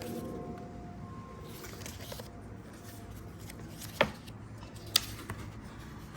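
Handling noise from unpacking, light rustling over a low steady hum, with two sharp knocks about four and five seconds in.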